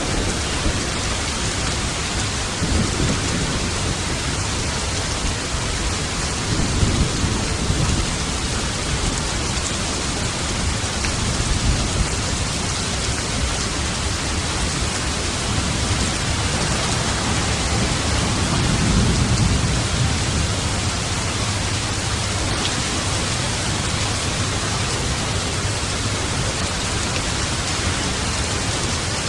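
Steady heavy rain with thunder rumbling low in the background a few times; the longest roll comes about two-thirds of the way through.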